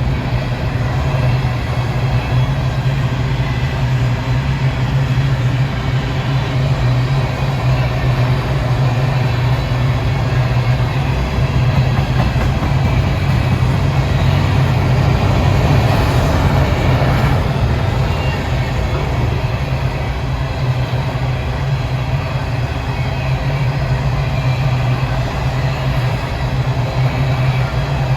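Freight train rolling past, a steady continuous rumble of railcars on the rails that swells slightly about halfway through.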